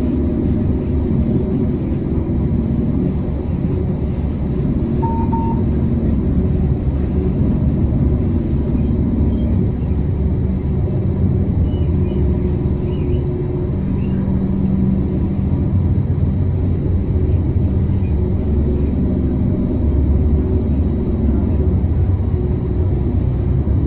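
Tram running along its line, heard from inside: a steady low rumble of wheels on rails with the hum of the traction motors shifting in pitch as it speeds up and slows. A brief high beep sounds about five seconds in.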